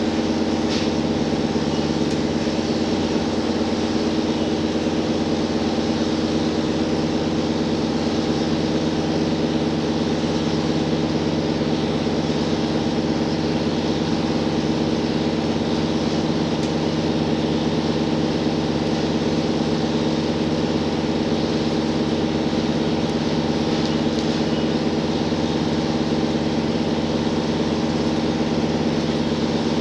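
Cabin sound of a JR Hokkaido H100 diesel-electric railcar running steadily, the engine-generator and traction equipment giving a constant, even hum with no change in pitch.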